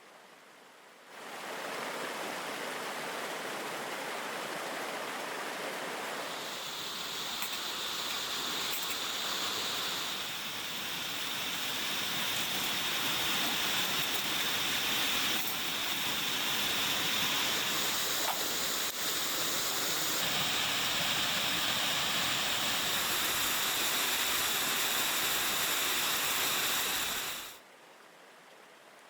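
Steady rushing of falling water from a waterfall, starting about a second in and cutting off suddenly near the end.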